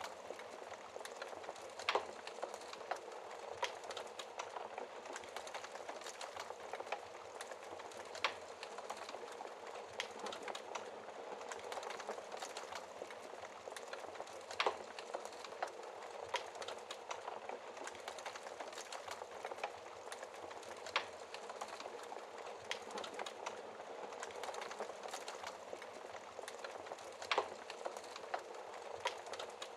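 Wood fire in a fireplace crackling: a steady hiss of burning with frequent small pops and a few sharper snaps every several seconds.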